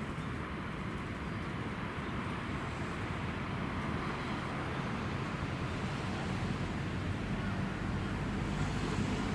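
Electric train running past with a steady rumble that builds a little toward the end.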